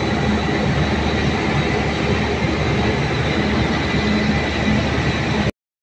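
Steady machinery running noise, cut off abruptly near the end.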